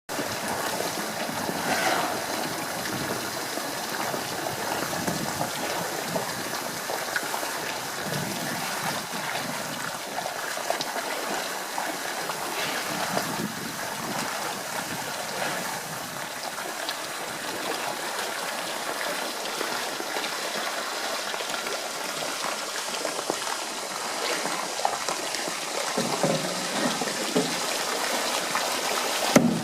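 Steady trickling, running water with small scattered sounds over it.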